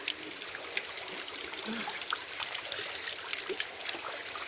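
Hot mineral spring water pouring out of the rock and trickling and splattering in many small drops.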